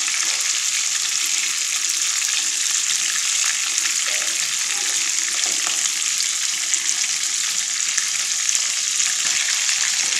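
Chicken pieces sizzling steadily in hot oil in a pan, with a spatula stirring and turning them now and then.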